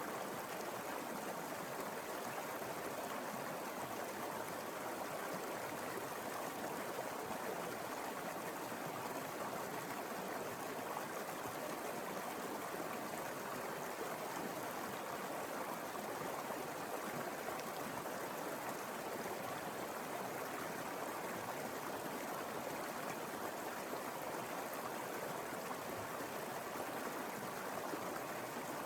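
Mountain river flowing over rocks: a steady, even rush of water with some gurgling.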